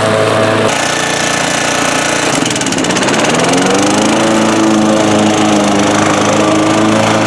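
1987 Honda HRA214 lawnmower engine running while mowing; about three seconds in its pitch rises and it settles into a steady, higher speed.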